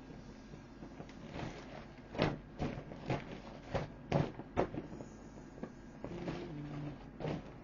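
Inflatable vinyl boat being handled and pressed: a run of sharp knocks and crackles, then a short squeak that steps down in pitch near the end.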